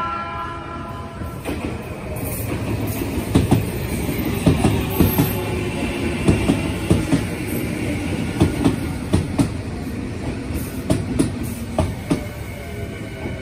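Electric commuter train running into the station on the next track, its wheels clacking over the rail joints in a steady run of knocks. A steady high tone sits over the rumble.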